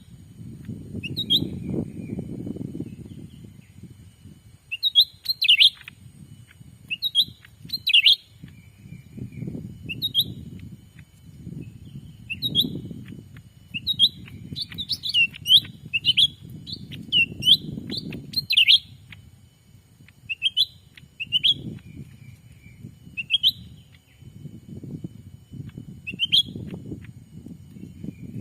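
Cucak ranting birds giving short, sharp chirping calls, repeated every second or so and bunching closer together in the middle. A faint steady high tone runs behind them, and a low rumbling noise swells and fades every few seconds.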